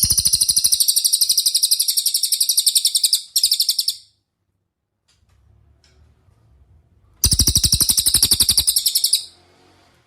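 A cililin songbird singing two loud, fast trills of rapidly repeated high notes. The first lasts about three seconds and is followed by a short extra burst. The second, about two seconds long, comes near the end.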